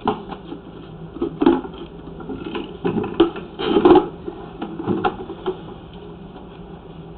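Irregular knocks and rattles as a drain inspection camera and its push cable are fed into a drain pipe, loudest about four seconds in, then settling to a steady low hum.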